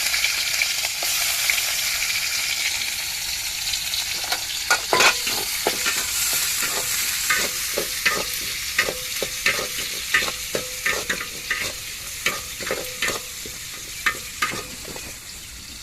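Small onions and curry leaves sizzling in hot oil for a tempering, loudest at first and slowly dying down. From about four seconds in, a utensil repeatedly knocks and scrapes the pan as it is stirred, some strikes ringing faintly.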